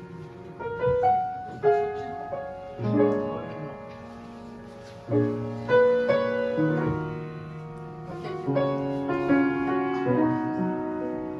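Piano playing a slow instrumental passage, chords and single notes struck and left to ring.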